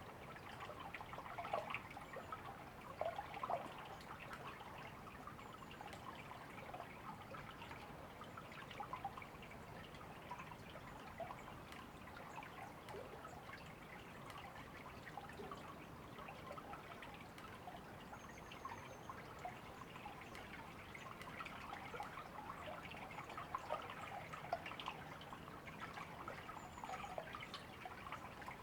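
A river babbling and trickling over stones, a steady wash of small splashes and drips, with a few faint high bird chirps.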